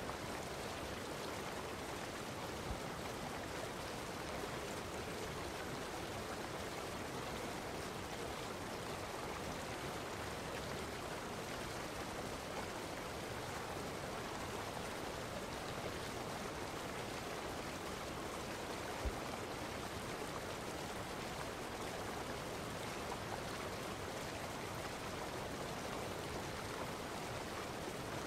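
Steady rushing noise of running water, unchanging throughout, with a couple of faint ticks.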